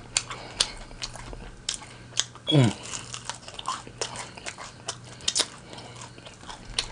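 Close-up chewing of extra-crispy fried chicken wings: a run of short, sharp crunches and mouth clicks at an irregular pace. About two and a half seconds in, a brief falling "mm" from the eater.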